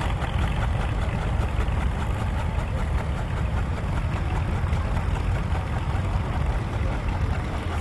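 Tractor engines running, a steady deep rumble.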